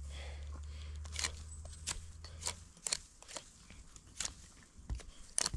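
Knife scraping and shaving bark off a fresh spruce stick in short, irregular strokes, with a low rumble underneath that stops about halfway through.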